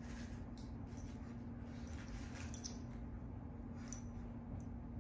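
Faint dog sounds from pet dogs over a steady low hum, with a few light clicks, the sharpest about two and a half seconds in.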